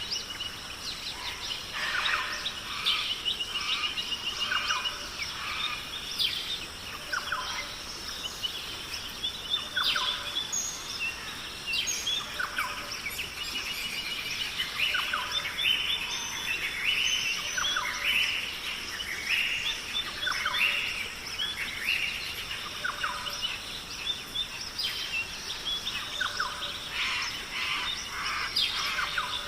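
Nature ambience of many birds chirping and calling, overlapping short repeated notes and trills, over a steady high-pitched thin tone.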